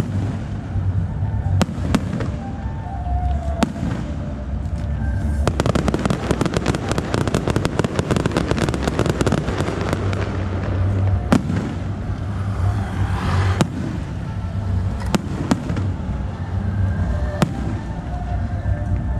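Aerial fireworks show: single shell bursts bang every second or two, with a dense run of rapid crackling about six to ten seconds in, over a steady low rumble.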